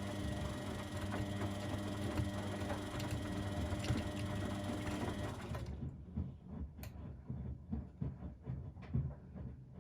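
Front-loading washing machine running with a steady motor hum that cuts off about six seconds in, followed by irregular soft knocks and clunks from the drum.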